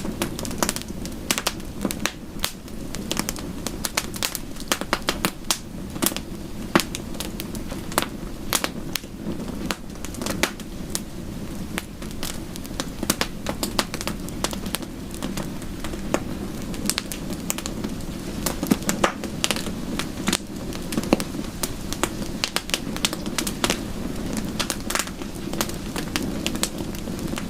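Crackling bonfire: dense, irregular pops and snaps of burning wood, several a second, over a steady low rush of the fire.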